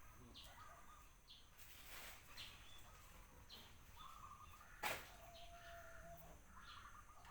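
Faint bird chirps in the background, short high calls repeating every second or so, with one sharp click about five seconds in.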